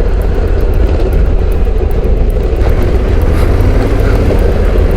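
Motorcycle riding along, its engine running steadily under a loud, even rumble.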